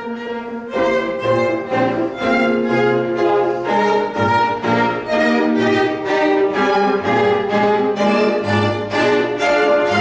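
A piano quartet (piano, violin, viola and cello) playing classical chamber music. The playing dips briefly at the start, then comes back in with a run of crisp, separate notes over sustained string tones.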